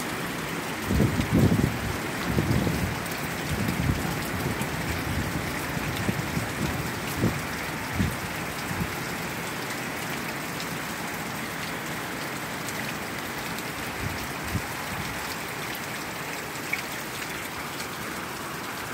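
Heavy tropical-storm rain falling steadily. For the first several seconds, irregular gusts of wind rumble and buffet against the microphone, the loudest about a second in, then die down, leaving the rain alone.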